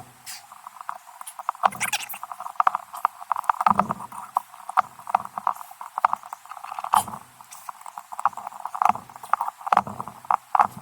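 Valve spring compressor being fitted and worked on a motorcycle cylinder head: irregular metal clicks, knocks and scrapes, with a couple of short squeaks.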